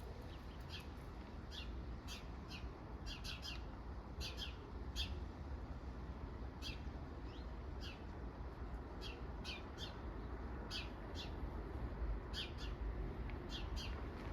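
Birds chirping: short, sharp chirps in irregular runs, several a second at times, over a steady low rumble.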